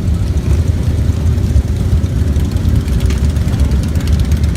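Steady low rumble of many motorcycle engines running together in a mass ride.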